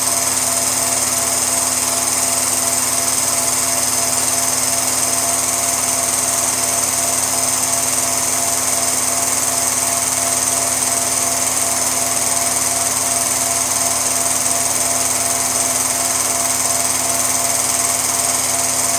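Steady, unchanging motor-like whir with a constant hum and hiss.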